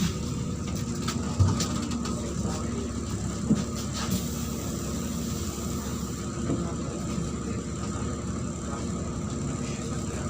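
Neman city bus running, heard inside the passenger cabin: a steady low engine rumble, with short knocks about one and a half and three and a half seconds in.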